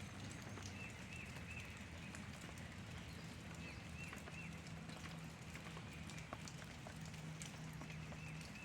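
Faint short bird chirps, scattered singly and in pairs every second or so, over a steady low hum.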